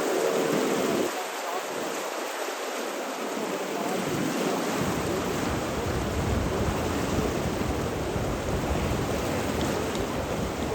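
Continuous rushing water with no distinct events. A faint steady tone drops out about a second in, and a deeper low rumble fills in from about four to five seconds in.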